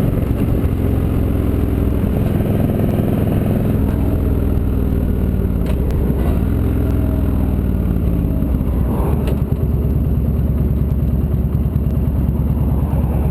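Victory V92C cruiser's V-twin engine running under way. Its pitch falls and rises again about halfway through, and it settles into an even, pulsing beat over the last few seconds.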